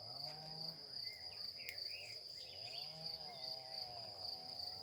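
Crickets chirring steadily in a continuous high-pitched, finely pulsing trill.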